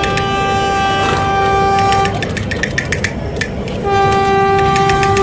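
Battery-operated toy helicopter sounding a horn-like electronic tone, held about two seconds, then again after a short pause, over fast steady clicking from its moving mechanism.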